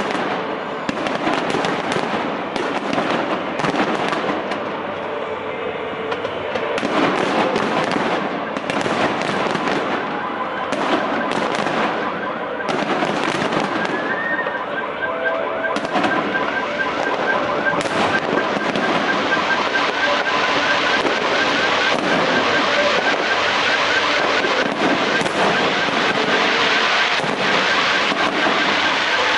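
Fireworks display: a dense, continuous run of bangs and crackling shell bursts. From about halfway a warbling tone runs underneath the explosions.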